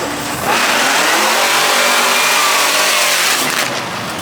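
Car engine revved hard: it surges about half a second in, holds high revs for about three seconds, then eases off.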